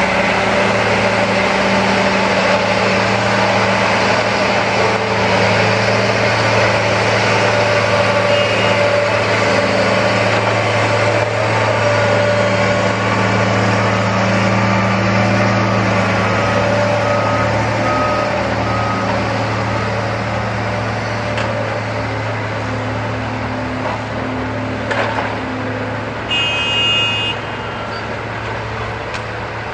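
Heavy diesel trucks and construction machinery running steadily, a deep continuous engine drone. A faint repeating beep comes and goes midway, and a short horn-like tone sounds near the end.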